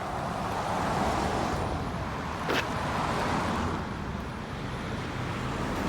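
Road traffic on the highway: a passing vehicle's tyre-and-engine noise, a steady rush that swells about a second in and eases off, with one brief sharp sound about two and a half seconds in.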